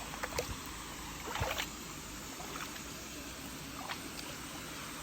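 Shallow mountain stream running steadily over rocks, with a couple of brief louder water sounds, one just after the start and one about a second and a half in.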